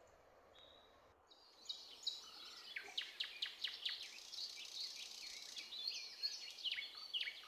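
Birds singing and calling: a busy run of quick, high chirps and downward-sweeping whistles, starting about two seconds in.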